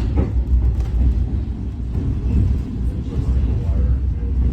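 Low, steady rumble of a train in motion.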